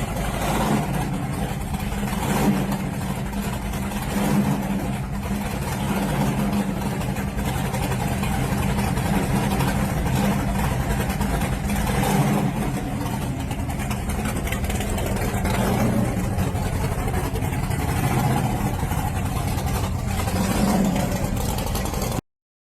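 A 1969 Chevrolet Camaro SS's big-block V8, a 454 bored out to 496 cubic inches with an 1150 cfm Dominator carburetor, running with several brief blips of the throttle.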